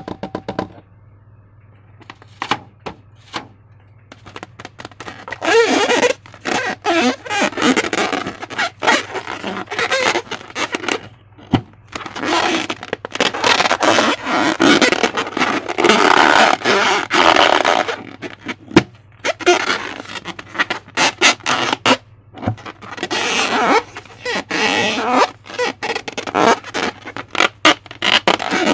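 Slime being handled: sticky, wet squelching and crackling, irregular, with a few scattered clicks at first and dense squishing from about five seconds in.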